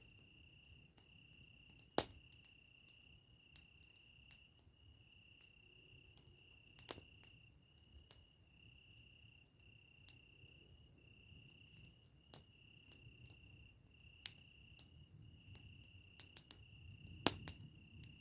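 Campfire crackling with scattered sharp pops, the loudest about two seconds in and near the end, over an insect's steady high trill that pauses briefly about once a second.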